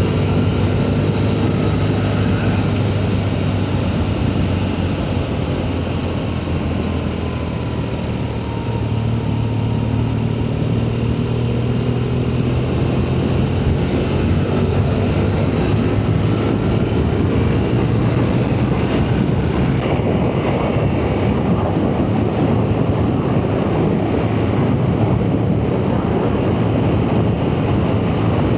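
BMW R1200GS boxer-twin engine running steadily under way, its pitch shifting slightly with the throttle, with wind rush growing louder over the last third.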